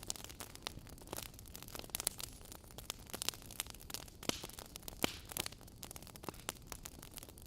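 Wood fire burning in a fireplace: logs crackling with frequent irregular sharp pops and snaps over a soft steady hiss of the flames.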